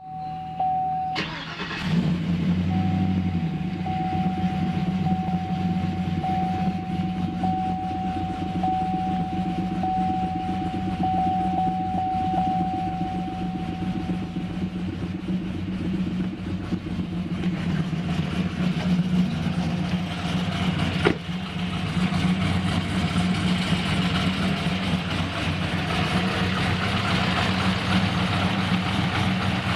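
A vehicle engine is cold-started. It catches about two seconds in and settles into a steady idle. A thin, steady high whine sounds along with it until about halfway, and there is a single sharp click about two-thirds of the way through.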